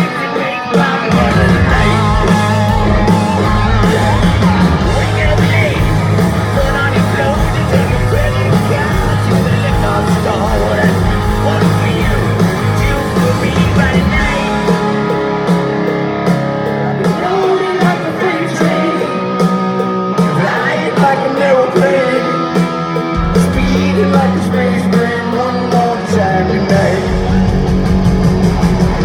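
Hard rock band playing live at full volume: distorted electric guitars, bass and drums under a lead vocal, with the low end coming in about a second in.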